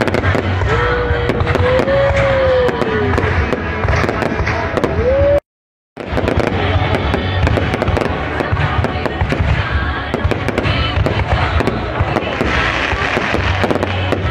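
Dense, continuous crackling of many sharp pops, with a wavering tone from about a second in and a half-second cut to silence near the middle.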